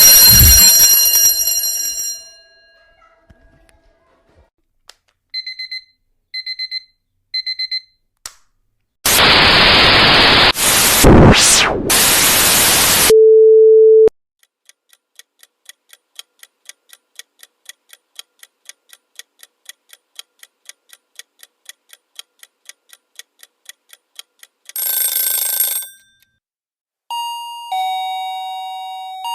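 A string of separate sound effects. It opens with a bright ringing chime that dies away over about two seconds, then three short two-tone beeps a second apart. About four seconds of loud static-like noise follow, ending in a brief low steady tone. Then come about ten seconds of even ticking at about three ticks a second, a short noisy burst, and near the end a two-note ding-dong chime falling in pitch.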